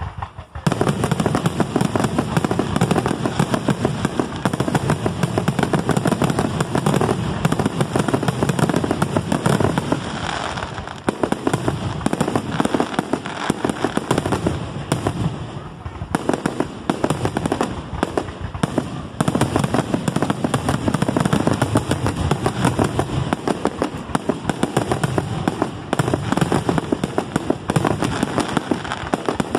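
Fireworks display: a dense barrage of aerial shell bursts, many bangs a second following each other almost without a break, easing briefly a couple of times.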